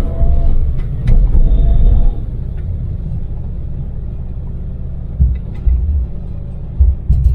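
Daewoo Damas microvan's LPG-fuelled three-cylinder engine and road noise inside the cabin: a heavy low rumble with a faint whine for about two seconds, then dropping to a steadier, quieter rumble. A few short low thumps and light clicks come near the end.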